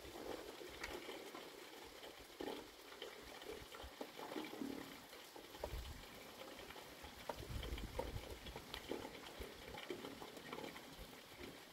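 Light rain pattering and dripping, a faint hiss of many small ticks, with a few faint low rumbles now and then.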